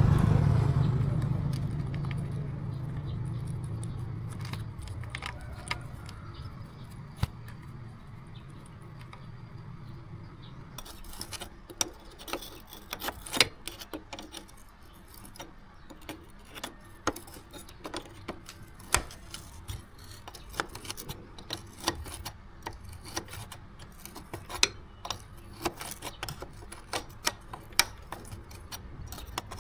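Irregular sharp metal clicks and clinks from hand work on small metal parts, starting about ten seconds in. Before that, a low rumble fades away.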